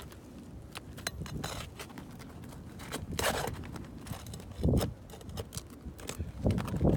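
Scrapes, scattered clicks and a few dull thumps from work on a shingle roof, with a short hissing scrape about three seconds in and heavier thumps around two thirds through and near the end.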